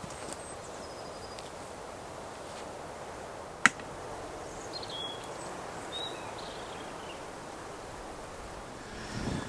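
Outdoor ambience: a steady background hush with a single sharp crack about three and a half seconds in, and a few faint short high chirps a little later.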